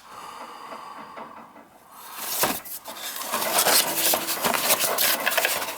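Rummaging through parts: hard metal and plastic items clattering and knocking against each other, starting about two seconds in, while searching for a replacement gas valve.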